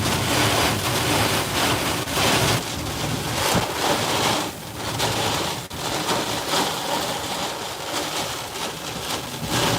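Severe thunderstorm winds driving heavy rain against a truck, heard from inside the cab: a dense, loud rush that swells and eases in gusts.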